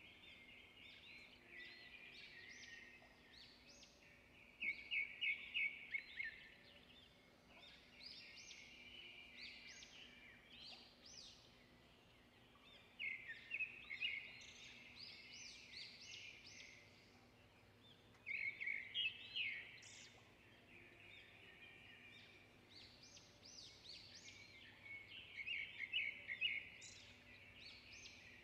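Small birds chirping and twittering in repeated bursts of quick high notes, with a few louder rapid trills, over a faint steady hum.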